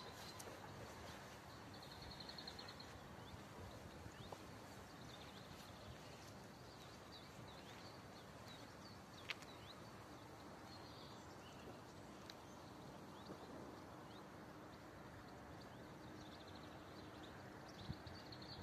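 Near-silent outdoor ambience with small birds chirping and trilling now and then, and a single sharp click about nine seconds in.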